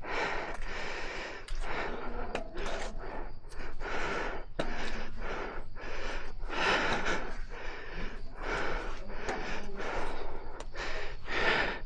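A person breathing hard, with quick, gasping breaths in and out that repeat throughout, from the effort of climbing.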